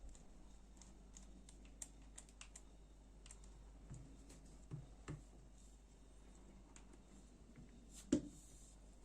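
Light clicks and taps of small folding-knife parts and a screwdriver being handled during disassembly, with a few duller knocks and one louder knock about eight seconds in.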